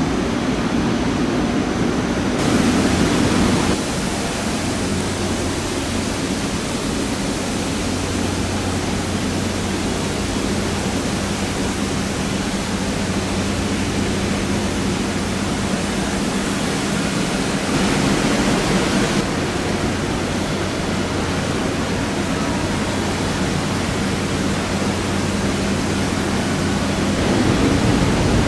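Torrential downpour, a loud steady hiss of heavy rain, swelling a little louder a few seconds in, again midway and near the end, over a faint steady low hum.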